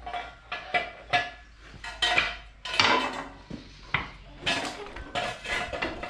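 Repeated metallic clanks and rattles, about two a second, each with a short ringing tone, as metal equipment is handled and knocked together.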